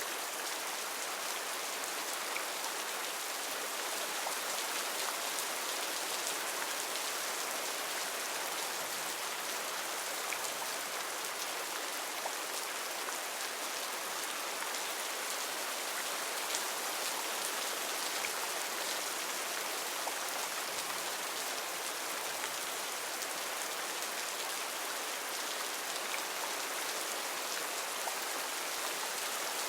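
Heavy rain falling steadily on rainforest foliage, an even dense hiss with many fine drop ticks.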